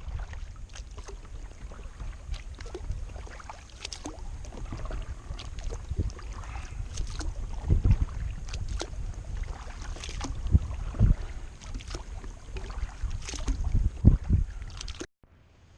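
Kayak paddling: irregular splashes and knocks of the paddle in the water and against the hull, with wind rumbling on the microphone.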